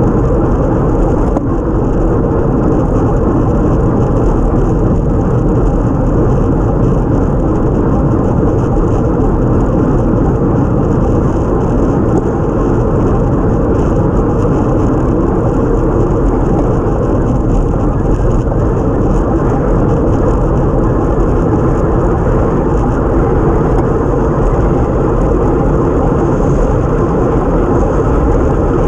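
Steady, loud wind and road noise picked up by a camera mounted on a time trial bike riding at race speed.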